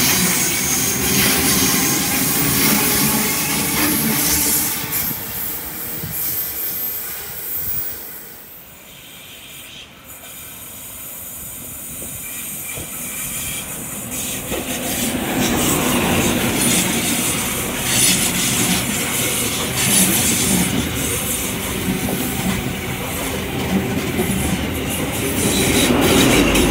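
A suburban electric train runs past close by and dies away over the first several seconds. Then an XPT diesel-electric express train approaches, growing steadily louder, and passes close with its power car and carriages, wheels running over the rails.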